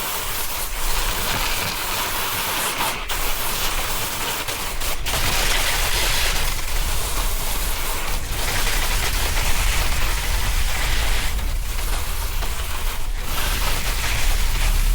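Snowboard sliding and carving over snow in a steady rough hiss, with wind rumbling on the camera's microphone.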